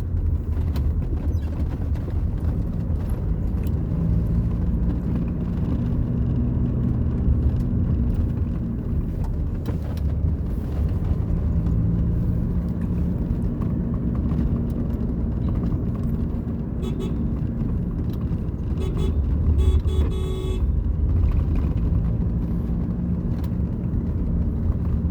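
A vehicle's engine and road noise heard from inside the moving vehicle: a steady low drone with a faint engine hum.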